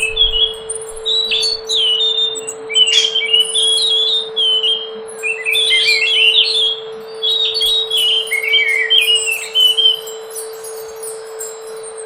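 Scaly thrush (anis macan) singing: a run of short, varied warbling phrases separated by brief pauses, with fainter high chirps from other birds and a steady low tone underneath.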